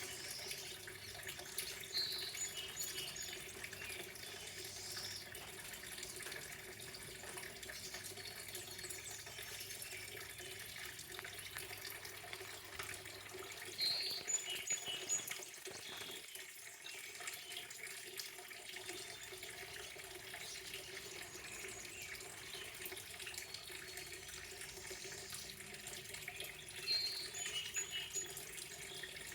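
Running water splashing steadily. Over it, a songbird sings a short phrase three times, about every twelve seconds, with faint high chips between.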